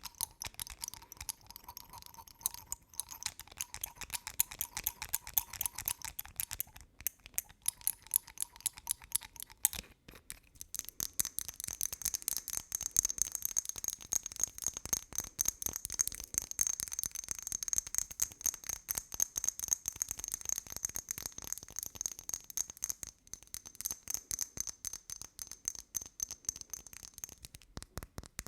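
Rapid, dense tapping and clicking close to the microphone, as in fast-paced ASMR triggers. A faint steady tone runs under it for the first ten seconds, and a higher thin tone runs from about ten seconds in until near the end.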